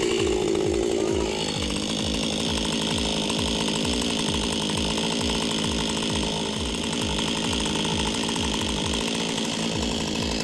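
Chainsaw running hard and steadily, cutting into a large tree stump.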